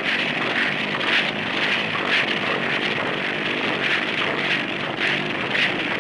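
Engine of an experimental direct-lift flying machine running, with a steady noisy drone. The drone swells rhythmically about once a second as the chain-driven transmission moves the flat-plate propeller up and down.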